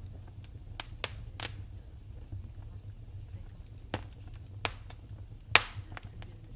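Wood fire burning in a fireplace, crackling with scattered sharp pops, about six clear ones with the loudest near the end, over a low steady rumble.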